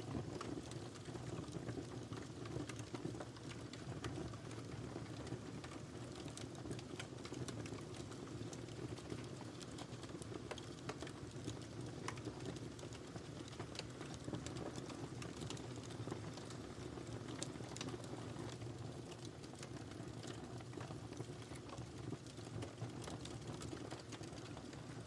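Wood fire burning steadily in a fireplace: a constant low rumble of flames with frequent small, sharp crackles and pops from the firewood.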